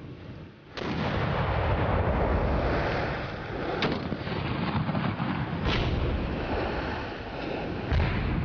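Harpoon cannon firing: a sudden blast about a second in, then three more sharp reports a couple of seconds apart, over a continuous rushing noise.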